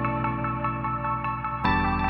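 Soft ambient background music: sustained low chords under a quick repeating plucked melody, with a chord change near the end.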